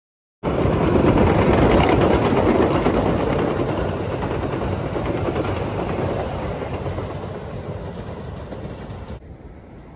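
MBTA Blue Line subway train running past close by on surface track: a loud rush of wheels on rail that starts abruptly, then fades slowly as the train moves away. It drops off suddenly near the end.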